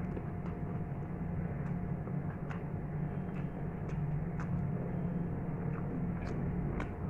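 Close-miked eating by hand: chewing a mouthful of rice and chicken curry, with small wet mouth clicks and smacks about once a second, over a steady low hum.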